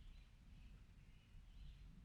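Near silence: a faint, steady low rumble with a few faint bird chirps above it.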